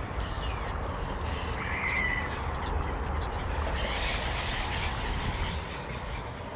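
Outdoor ambience with a steady low rumble, and a short call from one of the waterfowl by the pond about two seconds in.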